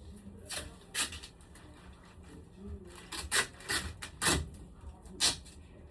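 About six short, sharp clicks and knocks at irregular intervals, from parts being handled during work on a room air conditioner.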